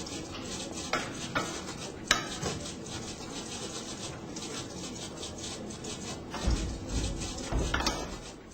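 Handling noises of an A320 cabin door's hardware: rubbing and scraping, with a few sharp metallic clicks, about four in all, and a couple of low thuds near the end.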